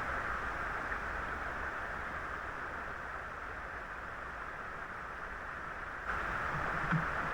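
Steady rushing of river water, a continuous hiss that grows a little louder about six seconds in, with a few faint clicks.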